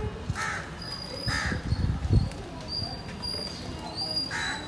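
Birds calling outdoors: two harsh, caw-like calls about a second apart near the start and another near the end, with a few thin, high peeps from another bird in between.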